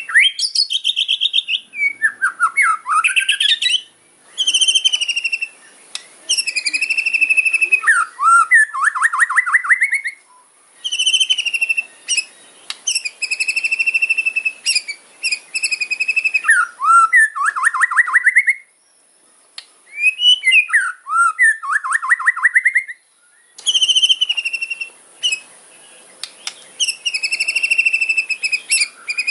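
White-rumped shama (murai batu) singing: phrases of rapid rattling 'kretek' notes mixed with clear whistles, separated by short pauses.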